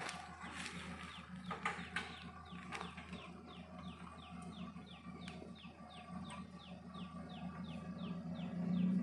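A bird in the forest repeats a short falling chirp about three times a second, over the low steady hum of the off-road 4x4's engine idling. A few sharp clicks come in the first couple of seconds.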